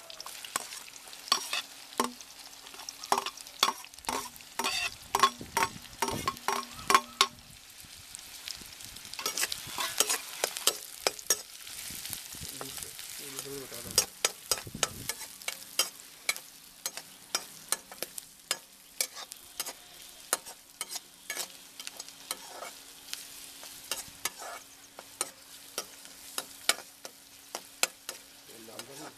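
Chopped onions and green chillies sizzling in hot oil in a kadai, with a steel skimmer scraping and clacking against the pan many times as they are stirred.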